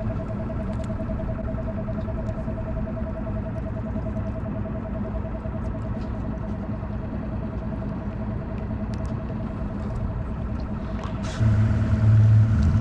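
Boat's outboard motor running steadily with a held whine over a low hum; about eleven seconds in it gets louder and deeper as it is throttled up.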